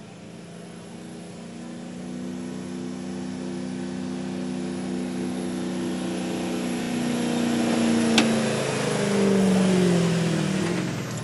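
Pulling truck's engine running hard under load during a truck pull, growing steadily louder, with its pitch sagging near the end. A single sharp crack sounds about eight seconds in.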